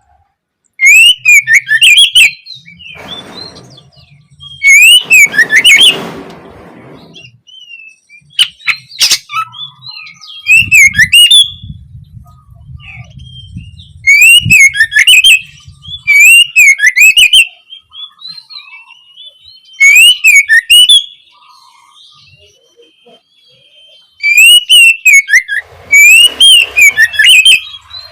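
Oriental magpie-robin (kacer) singing loudly: about six bursts of fast, warbling whistled phrases, a few seconds apart, with quieter pauses between them.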